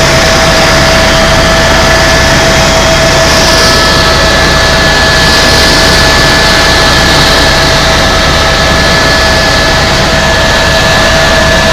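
Helicopter in flight: loud, steady engine and rotor noise with a constant high whine over a low rumble.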